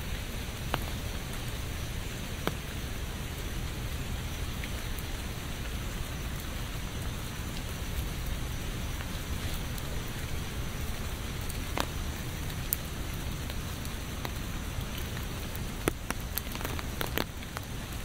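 Steady rain falling, with occasional single heavy drops ticking sharply nearby and a short cluster of them near the end.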